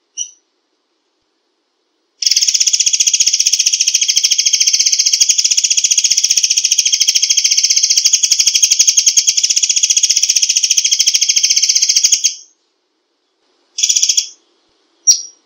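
Murai air bird giving its rapid-fire 'tembakan rapat' call. After a short chirp comes a very fast, unbroken, high-pitched pulsed trill lasting about ten seconds, then two short bursts near the end.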